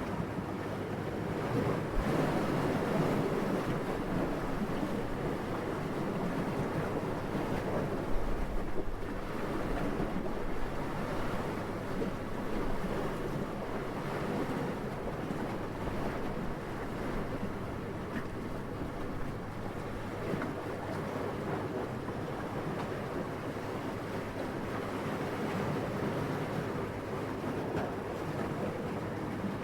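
Wind: a soft, steady rushing that swells and eases in gusts, with a brief low buffet about eight seconds in.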